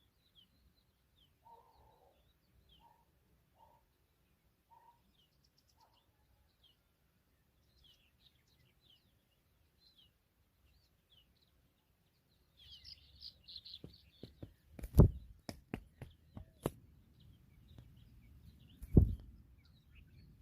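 African familiar chats giving faint, short high chirps, with a brief flurry of rapid chirping about two-thirds of the way through. This is followed by several sharp knocks, the loudest sounds, the last a little before the end.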